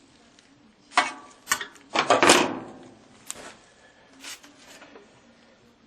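A handful of knocks and clunks from something being handled and set down, the loudest a clattering knock about two seconds in that rings briefly, then a few lighter taps.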